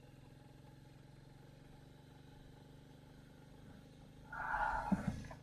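Faint steady low hum of a motorcycle engine idling, with a brief louder noise lasting about a second, starting just past four seconds in.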